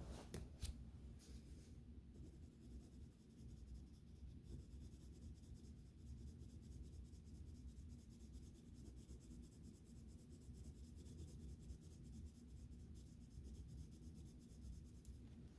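Faint scratching of a drawing tool on sketchbook paper as colour is laid down, with a few sharp clicks just after the start.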